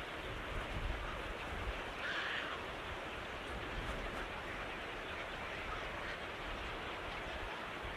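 Steady outdoor background noise with a brief bird call about two seconds in.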